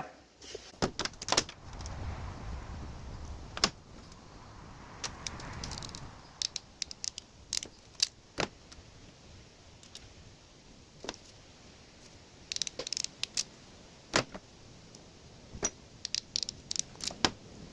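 Scattered small clicks and light metallic clatters, with a couple of soft rustling stretches, from handling tools and wiring parts while working on the wiring.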